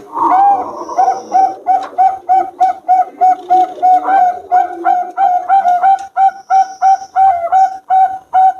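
Zebra dove (perkutut) cooing: a long, fast run of short coos at one steady pitch, about three to four a second.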